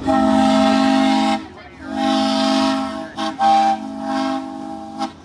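Miniature steam locomotive's chime whistle sounding a chord of several notes over a steam hiss, in two long blasts: the first about a second and a half, the second longer with a brief break partway through and quieter toward its end.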